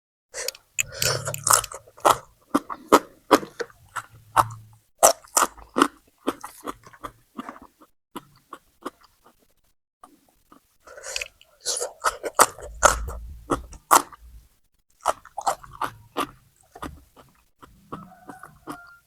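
Crunching and chewing of raw vegetables such as cucumber and long beans. It comes as sharp crackling bites and chews in clusters, with a pause of about two seconds near the middle.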